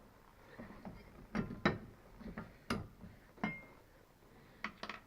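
Metal seat-mounting parts being handled and set in place: about six scattered knocks and clinks, one with a short metallic ring about three and a half seconds in.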